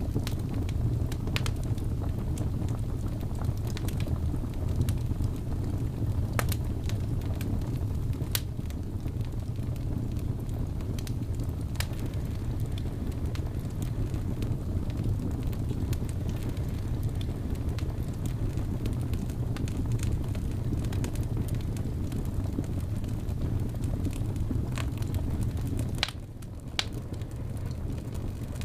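Wood fire burning in a fireplace: a steady low rumble with scattered sharp crackles and pops, several seconds apart. The sound dips briefly for about a second near the end.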